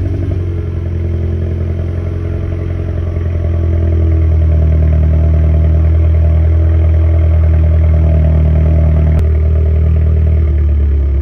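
Mercedes A200 four-cylinder engine idling steadily just after starting, its exhaust a straight stainless pipe with the silencers removed. The idle grows louder a few seconds in.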